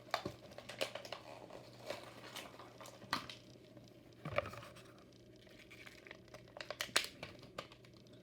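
Toy car packaging being opened by hand: plastic and card crinkling and tearing, with scattered clicks and a few sharper snaps.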